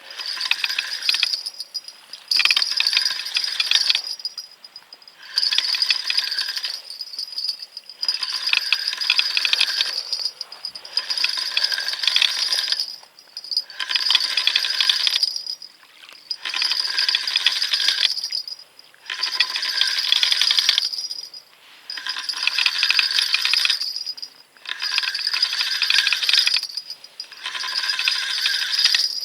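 Fishing reel being cranked in spurts to bring in a hooked fish: a metallic rattling whir in bursts of one to two seconds with short pauses between them.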